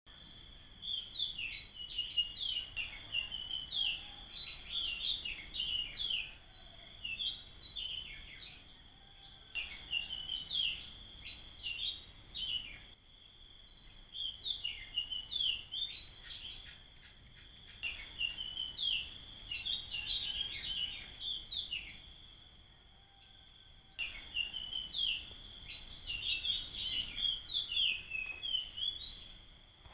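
Bird calling in rapid runs of short, sharp chirps, in three long bouts with lulls about 13 and 22 seconds in, over a steady high insect drone.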